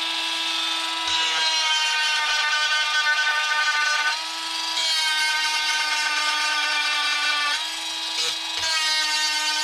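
12-volt portable electric chainsaw sharpener running with a 7/32 grinding stone, a steady motor whine. It gets louder and brighter in spells of a few seconds as the stone is pressed lightly to successive chain teeth, dipping slightly in pitch between them.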